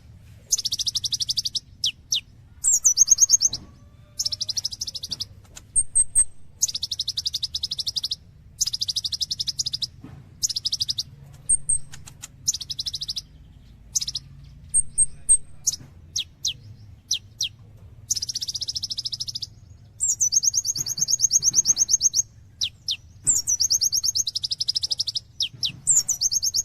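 Kolibri ninja sunbird singing hard, in repeated bursts of fast, high trilling about a second long, broken by short gaps, quick falling notes and a few tiny high chips. A faint low hum runs underneath.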